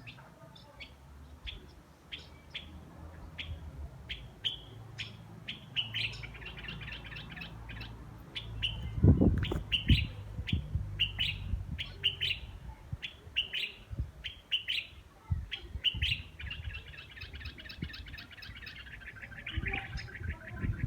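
A small bird chirping over and over, about two short high chirps a second, breaking into a fast trill near the end. A few dull low thumps come about nine to ten seconds in, louder than the chirps.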